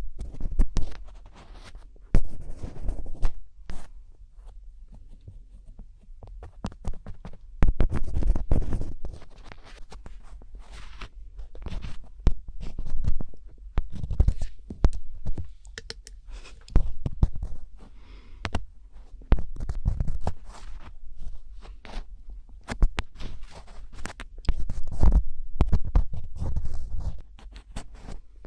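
Close-miked ASMR scratching: irregular runs of scratchy strokes and sharp clicks, with low rumbling thumps under them.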